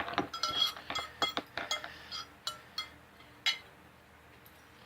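Utensil clinking and scraping against a plate, a quick run of light ringing clinks that thins out and ends with a last clink about three and a half seconds in.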